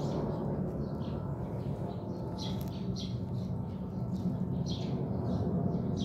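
A small bird chirping in short, separate calls repeated every second or so, over a steady low rumble.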